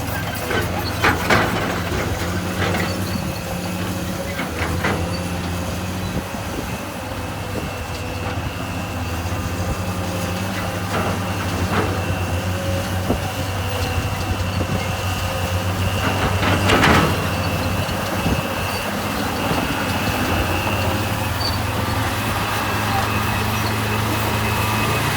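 Diesel engine of a heavy earthmoving machine running steadily under work, with a faint high whine above it and a few short metallic knocks and clanks, the loudest about 17 seconds in.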